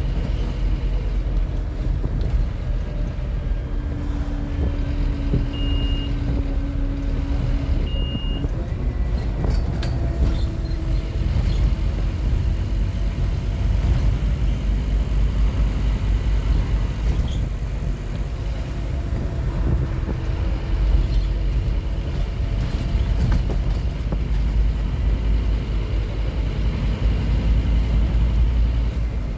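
Scania N230UD OmniCity double-decker bus running along, its five-cylinder diesel and drivetrain giving a steady deep rumble. Two short high beeps sound about six and eight seconds in.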